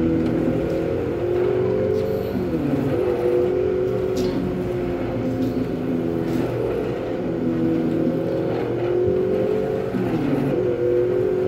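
Dirt-bike kiddie ride playing its recorded motorcycle-engine sound through its speaker. The revving dips sharply in pitch about two seconds in and again near the end, as the effect loops.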